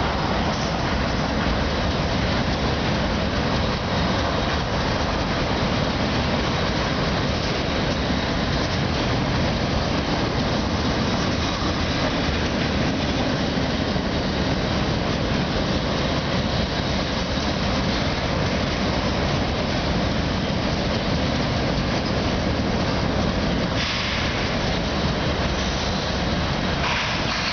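Freight train cars rolling past close by: a steady, loud rumble and rail noise that does not let up.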